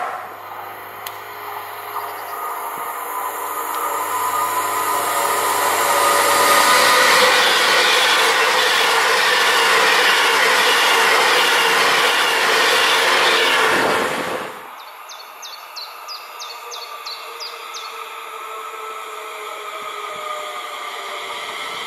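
Class 390 Pendolino electric express passing through at speed, a steady rush of wheels on rails and air that builds over several seconds, then cuts off abruptly about two-thirds of the way through. After that, birds chirp and another train is faintly heard approaching.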